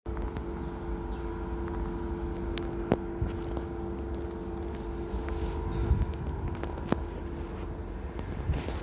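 Medium-distance passenger train: a low rumble with a steady two-tone mechanical hum that stops about six seconds in, and a few sharp clicks and knocks.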